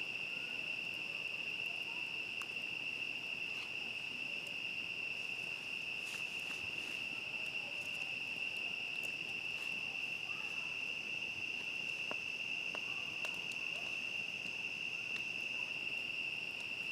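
Crickets chirring in a steady chorus, one unbroken high-pitched trill, with scattered faint crackles from a campfire.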